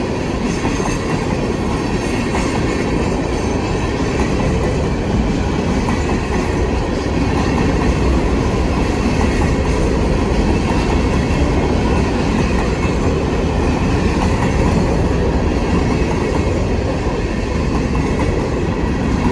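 Canadian National freight train rolling past, a steady, loud rumble of steel wheels on rail that swells slightly partway through.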